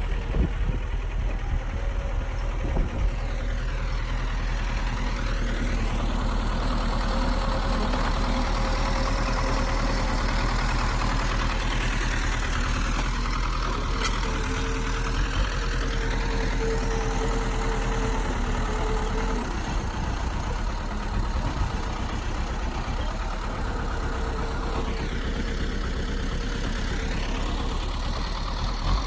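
Heavy earthmoving machine's diesel engine running steadily. Its tone sweeps several times.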